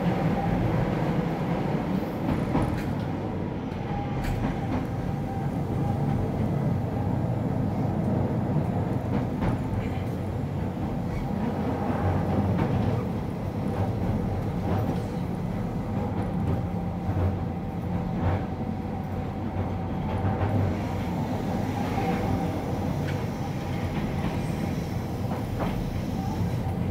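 Keihan 800-series electric train running, heard from inside the car: a steady rumble of wheels on rail with a faint even whine from its Toyo IGBT inverter-driven traction motors and a few light clicks over rail joints.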